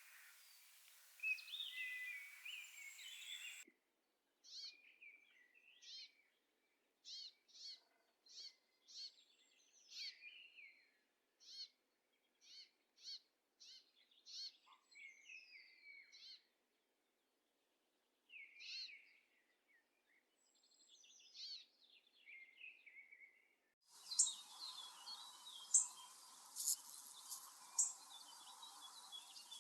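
Songbirds singing: short, high whistled phrases and notes repeated about once a second, in separate recordings spliced together, so a background hiss stops abruptly a few seconds in and returns near the end with sharp high ticking calls.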